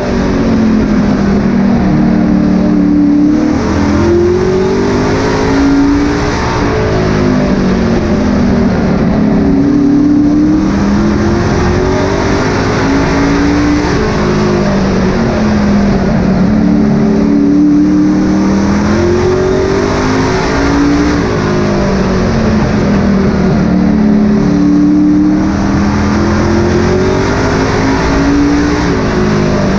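Racing truck engine accelerating and then lifting off in a repeating cycle about every seven seconds, the pitch climbing on the straights and dropping into the turns of a short oval track.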